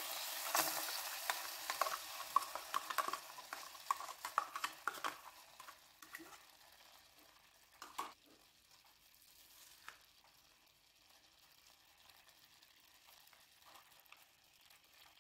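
Yoghurt sizzling as it is spooned into hot oil in a frying pan, with a metal spoon scraping and tapping against the cup and pan. The sizzle fades away over the first five or six seconds, leaving a few faint clicks.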